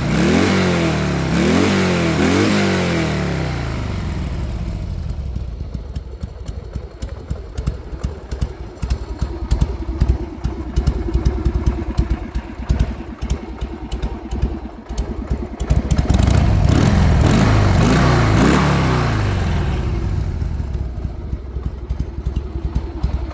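Harley-Davidson XLH883 Sportster's air-cooled V-twin being revved with quick throttle blips, then dropping to a slow, uneven three-beat idle of separate pulses. About two-thirds through it is revved once more and settles back to the loping idle.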